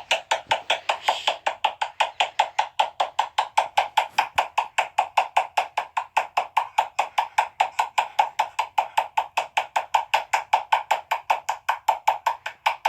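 Fast, even wood-block-like percussion, about six sharp taps a second, keeping a steady rhythm like a music track.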